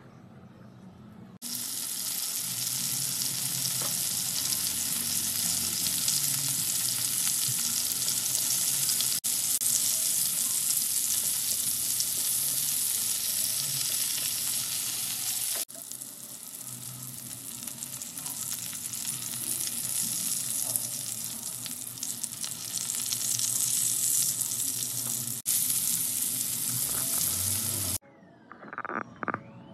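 Skewered seekh kababs frying in oil on a hot iron tawa over a high flame: a steady, dense sizzle. It starts about a second in, breaks off abruptly a few times, and stops suddenly near the end.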